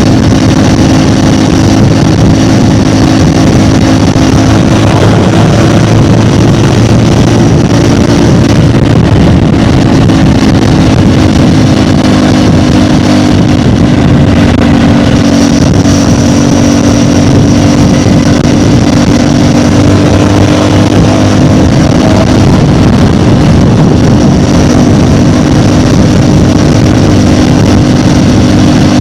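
CFMOTO 450MT parallel-twin engine through its stock exhaust, running at a steady, nearly constant engine speed with a continuous drone whose pitch wanders only slightly.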